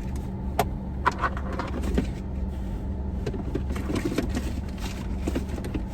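Car engine idling, heard from inside the cabin as a steady low hum, with scattered light clicks and knocks from things being handled.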